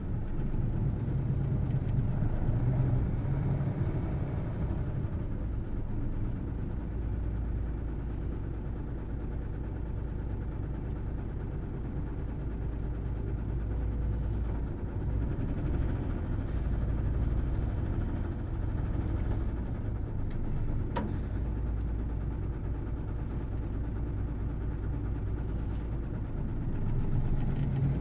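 Hino Blue Ribbon City Hybrid bus's inline-six diesel engine running steadily while the bus is under way, with a deep rumble. A few faint short hisses and clicks occur around the middle.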